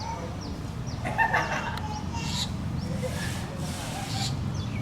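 Birds calling: a short, falling chirp repeats about twice a second, with a louder call about a second in. Bursts of hiss come later, over a steady low rumble.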